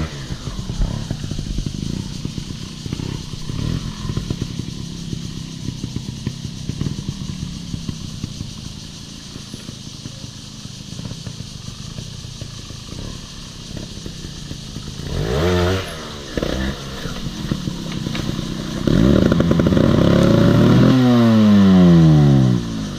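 Off-road motorcycle engine running at low throttle with clattering. It revs briefly about 15 seconds in, then revs hard from about 19 seconds, and the pitch falls away near the end.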